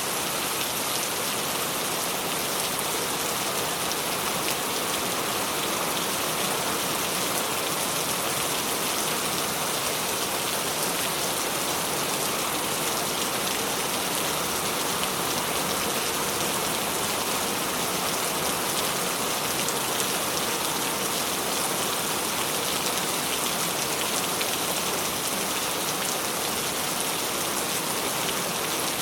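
Steady rain falling on surfaces: an even, dense hiss with a fine patter of drops that holds at one level.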